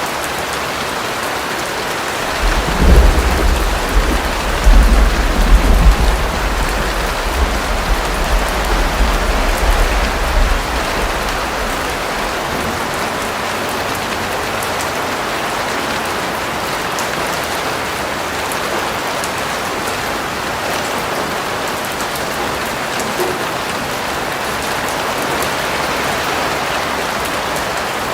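Steady rain falling on surfaces, an even hiss. A few seconds in, a rolling rumble of thunder builds and fades over about eight seconds, loudest near its start.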